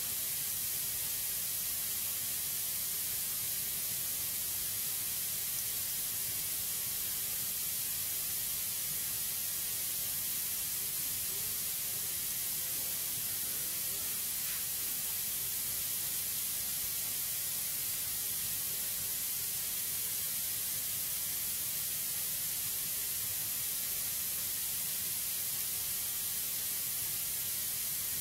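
Steady, even hiss, strongest in the highs, with no crackling pops.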